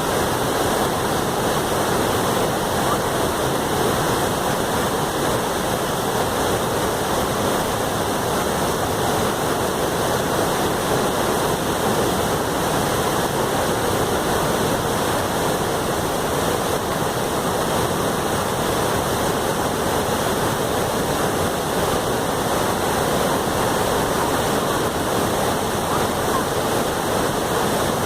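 Waterfall on a river: a loud, steady rush of falling and churning water, unbroken throughout.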